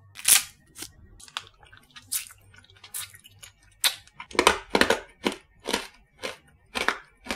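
Alpenliebe hard candy being crunched between the teeth close to the microphone: a series of sharp, separate crunches, coming thickest about four seconds in.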